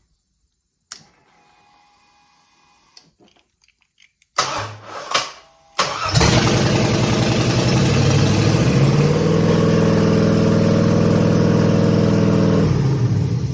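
A click and a faint whine, then the starter cranks a 5.3 L LS V8 in a few short bursts. The engine catches about six seconds in on its test fire and runs loud and steady, its speed rising a little after a few seconds, before it is shut off near the end and runs down.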